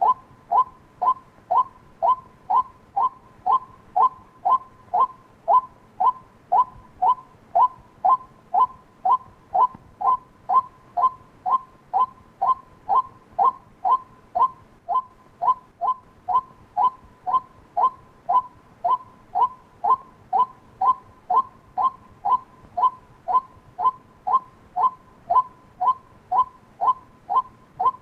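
White-breasted waterhen call: one short, falling 'kwak' note repeated monotonously about three times a second, the rhythmic call used as a decoy to lure waterhens.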